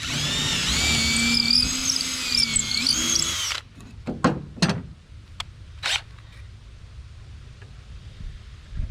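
Power drill boring a hole in a wooden board, its motor whine wavering in pitch as the bit cuts, for about three and a half seconds before it stops suddenly. A few short clicks and knocks follow.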